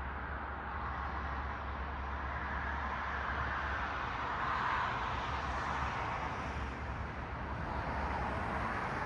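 Road traffic: the tyre-and-engine noise of cars passing on a city street, swelling as a car goes by about halfway through and again near the end, over a steady low hum.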